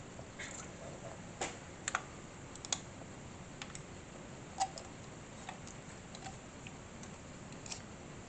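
Scattered light clicks and taps of small scale-model parts being handled and fitted together, at irregular intervals, the loudest a little past halfway.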